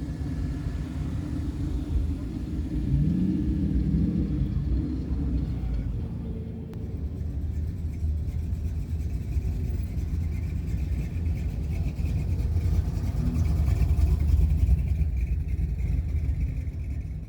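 Car engines rumbling as cars move past at low speed. One engine's pitch rises briefly about three seconds in, and the rumble is loudest near the end.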